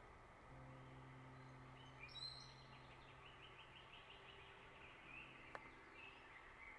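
Faint birdsong: a bird sings a rapid run of chirps from about two seconds in, over a steady low hum. A single sharp click comes late on.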